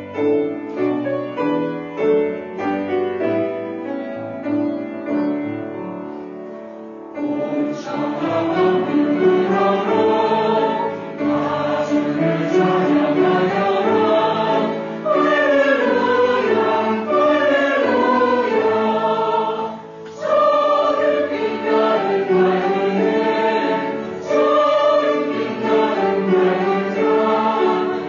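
Church choir singing a Christmas hymn with piano accompaniment. The piano plays alone for the first several seconds, and the choir comes in about a quarter of the way through.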